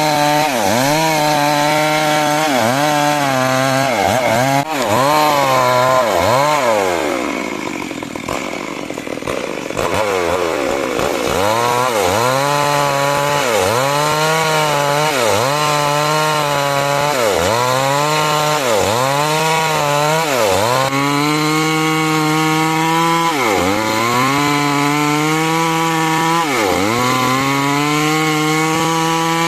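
Chainsaw cutting timber into 6 × 6 cm rafters. The engine's pitch dips under load and recovers every second or so. About seven seconds in, it drops in pitch and loudness for a few seconds, then picks back up into the cut.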